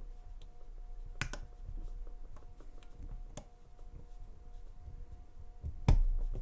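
Lock pick working the pins inside a Lane Security padlock: faint scratchy clicking and tapping, with sharper clicks about a second in and about three seconds in, then a louder knock near the end.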